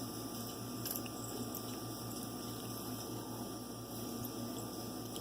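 A steady low hum with a faint constant high tone over a light hiss. No distinct events.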